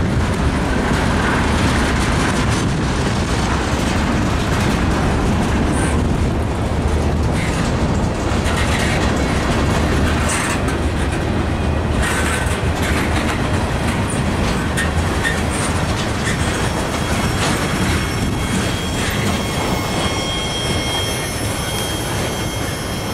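Freight train of tank cars rolling past close by: a steady loud rumble of steel wheels on rail with occasional clanks. It eases off slightly toward the end as the last cars pass, and a thin high squeal comes in.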